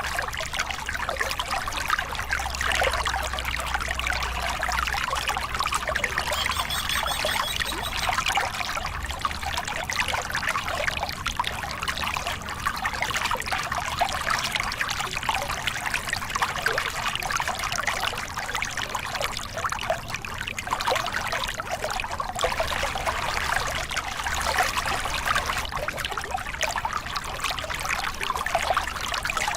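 Small river cascade: water tumbling and trickling over rocks in a steady, unbroken rush.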